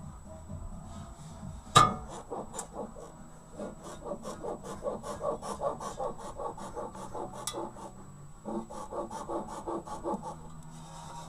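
Worn upper control arm silent blocks (rubber-metal bushings), about 60,000 km old, squeaking in a fast run of short, repeated creaks, with one sharp knock about two seconds in and a brief pause near eight seconds.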